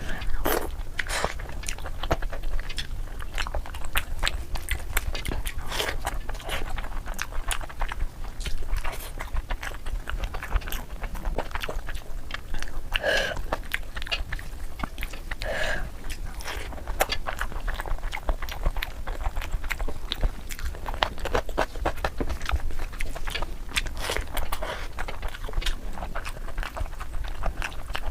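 Close-up eating sounds of a person biting and chewing tandoori chicken: a dense, irregular run of wet smacks, clicks and crunches, sped up to double speed.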